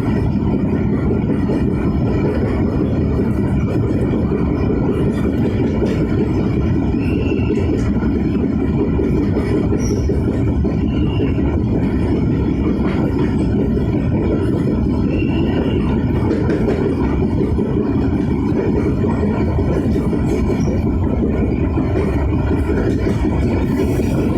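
Passenger train running on the rails: a steady low rolling rumble of wheels on track, with a few faint, brief wheel squeals.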